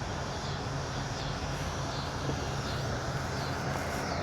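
Steady wind and road noise on the helmet camera from an e-bike riding on pavement, with a steady low hum underneath.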